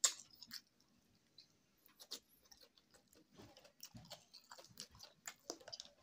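A person chewing and eating boiled fish with his fingers, making soft lip smacks and small wet clicks, with a sharp click right at the start.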